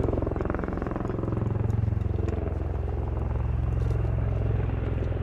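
Bell-Boeing CV-22B Osprey's two big proprotors, driven by its Rolls-Royce AE1107C turboshafts, running steadily in helicopter mode with the nacelles tilted up, a low rapid blade beat under the engine noise.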